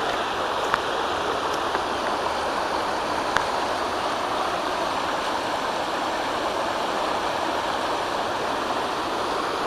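Floodwater from a channel of the Calapooya River rushing steadily across the road in a shallow sheet, with a few faint ticks.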